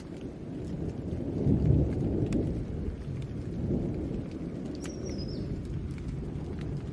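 Steady rain with rolling thunder, a deep rumble that swells to its loudest about a second and a half in and then eases off.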